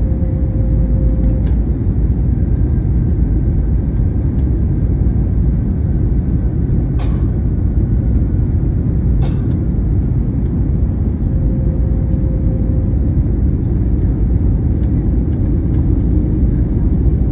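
Steady low rumble of an Airbus A321neo cabin in flight on approach: engine and airflow noise, with two sharp clicks about seven and nine seconds in.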